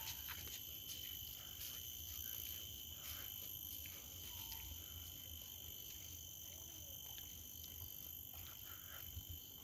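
Tropical forest insects keeping up a steady, faint, high-pitched drone, with a few faint short bird chirps over it.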